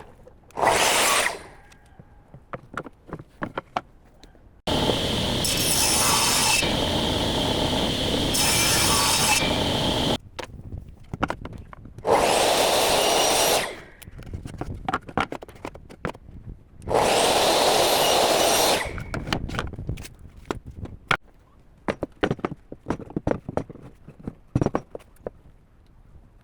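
A power tool cutting or shaping wood in four runs, a short one, a long one of about five seconds and two shorter ones, its motor carrying a steady whine. Between the runs come irregular knocks and clatter of wood being handled.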